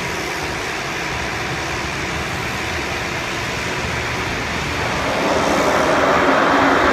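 Aircraft engine noise from a plane coming in to land: a steady rush that grows louder about five seconds in, with a few steady engine tones coming through.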